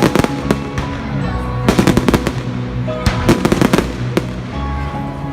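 Fireworks exploding in clusters of sharp bangs and crackles, with music playing underneath.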